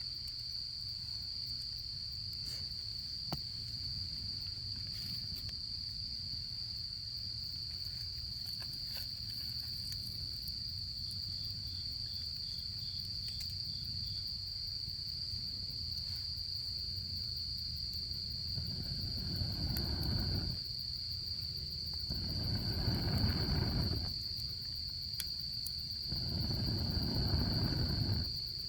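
Autumn crickets trilling in one steady, high, unbroken note, with a short run of quick chirps from another insect about midway. A campfire crackles in sparse light pops. Three swells of low rushing noise rise and fall in the last third.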